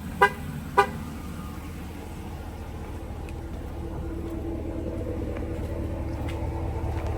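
Two short horn toots about half a second apart, then a Ram 1500's Hemi V8 and road rumble heard inside the cab, growing a little louder toward the end.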